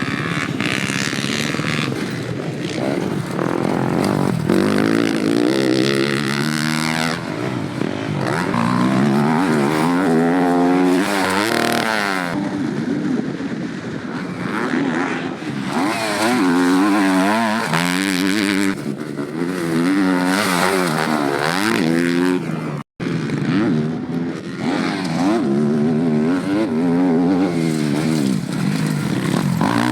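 Dirt bike engines revving hard and backing off in repeated rising and falling sweeps as the bikes are ridden. The sound changes from shot to shot, with a sudden break about 23 seconds in.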